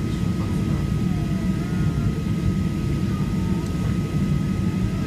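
Cabin noise inside a Boeing 737-800: the steady low rumble of the engines and airflow, with a thin steady whine over it.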